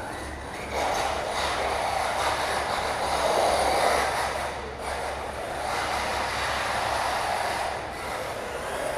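Arrma Mojave 6S RC desert truck running on its brushless electric motor, with motor whine and tyre noise surging and easing off several times as the throttle is worked.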